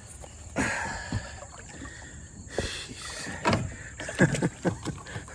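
Kayak being wrestled through the water among fallen branches: sloshing and swishing, then a quick run of sharp knocks on the hull from about three and a half seconds in.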